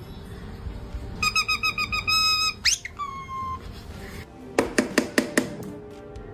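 A parrot whistling: a quick run of beeping notes, a fast rising whistle, then one held whistle note. A run of sharp clicks follows about a second later.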